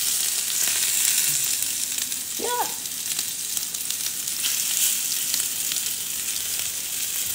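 Chicken meatballs frying in hot oil in a small cast iron skillet: a steady sizzle with fine crackling.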